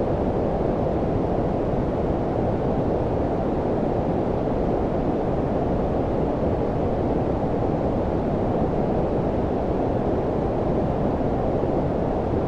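Steady low-pitched synthetic noise of the brown-noise kind, a deep, even rushing hiss with no high end, unchanging throughout.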